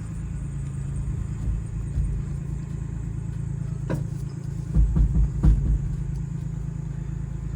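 Slow-moving vehicle: a steady low engine hum and rumble of rolling, with a few clunks and knocks about four to five and a half seconds in as the 1980 Volkswagen Rabbit pickup rolls along.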